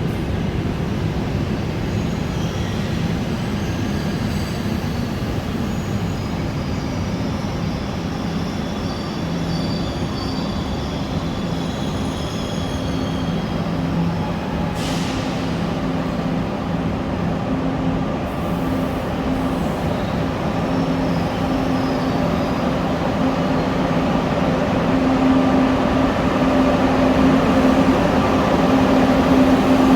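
High-speed electric train moving in the station: a steady running noise with a low hum that grows louder toward the end. Faint high wheel squeals come in the first half, and a short hiss comes about halfway through.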